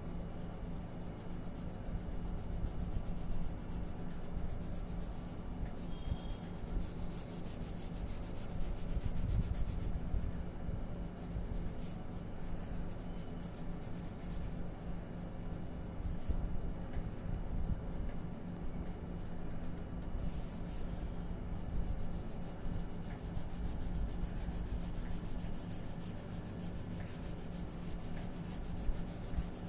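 Colouring medium rubbing and scratching across paper in continuous strokes while a picture is coloured in by hand.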